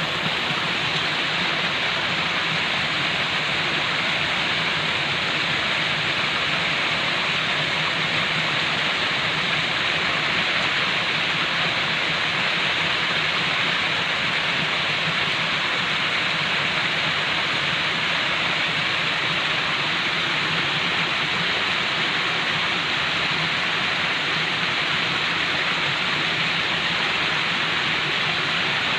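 Falling water rushing steadily, a continuous even hiss that does not change.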